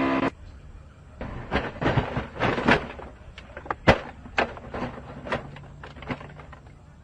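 A racing car crash: about a dozen irregular sharp knocks and bangs, the loudest about four seconds in. A steady engine-like tone cuts off just after the start.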